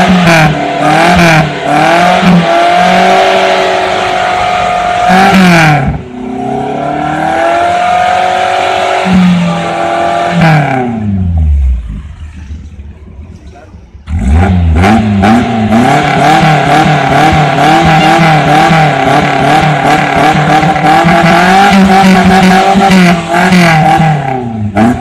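Suzuki Katana's engine being revved, heard at the tailpipe. The revs swing up and down for about ten seconds and then fall away. About fourteen seconds in they come back sharply, are held high and fairly steady for about ten seconds, then drop near the end.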